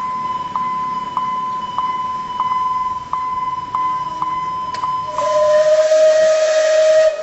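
Steam locomotive whistle blowing one steady note over a loud rush of steam for about two seconds near the end, cutting off sharply. Under it, and before it, runs a continuous high tone with a soft tick about every 0.6 s.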